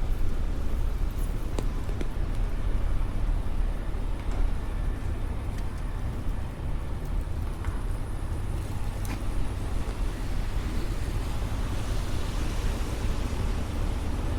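Street traffic: cars passing on rain-wet pavement, a steady low rumble with tyre hiss that swells near the end.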